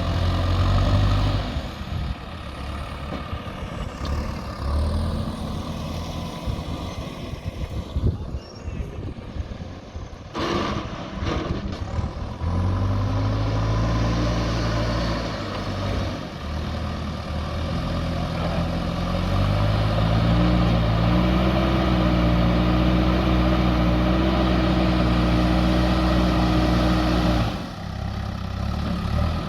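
JCB 3DX backhoe loader's diesel engine working. It revs up under load about halfway through, holds high and steady for several seconds, then drops back near the end, with a few sharp clattering knocks about a third of the way in.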